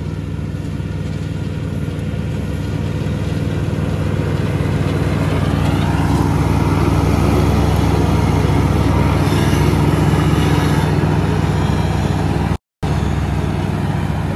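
Zero-turn riding mower engine running steadily, growing louder over the first several seconds, with a brief cut-out near the end.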